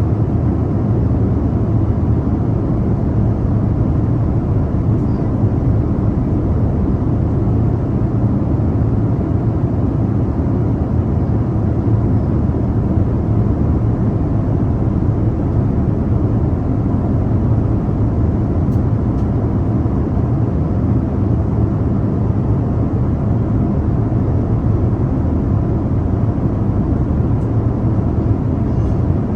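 Steady cabin noise of a jet airliner in flight, heard from a window seat: an even, low rushing drone with a faint hum beneath it, unchanging throughout.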